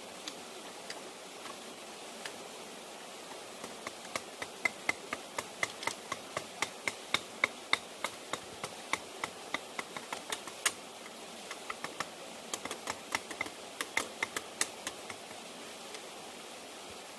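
A run of light, sharp taps, two to four a second, starting a few seconds in and stopping near the end, over a steady hiss.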